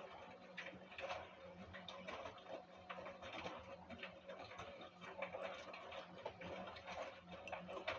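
LG WD-1054FB washing machine running: a steady low hum with many irregular clicks and rustles throughout.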